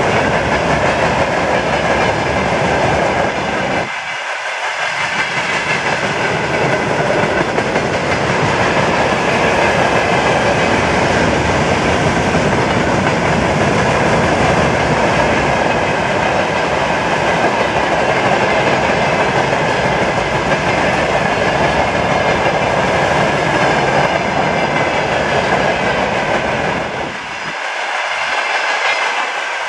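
Wagons of a freight train rolling past close by: steady wheel-on-rail noise, dipping briefly twice, about four seconds in and again near the end.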